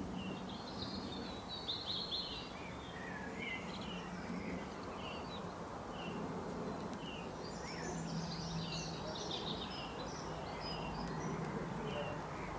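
Several small songbirds chirping and singing in quick, short notes, busiest in the first couple of seconds and again in the second half, over a steady background hiss and a faint low hum.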